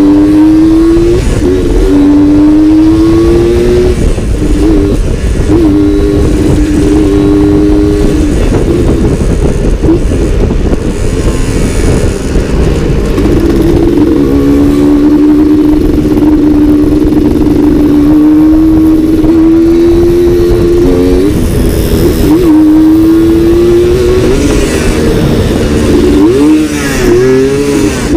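Suzuki Satria two-stroke motorcycle engine running under way, its pitch climbing slowly and dipping several times, over a dense low rumble.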